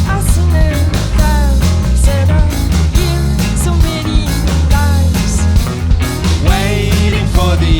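Rock band playing live, with a heavy bass and drum beat under gliding melodic lines.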